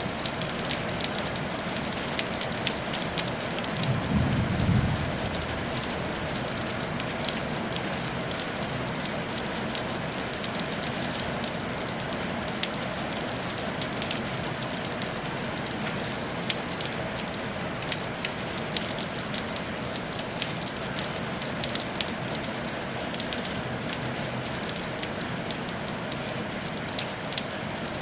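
Steady rain falling on a tile roof, a constant hiss dotted with the fine ticks of individual drops. A brief low rumble rises and fades about four seconds in.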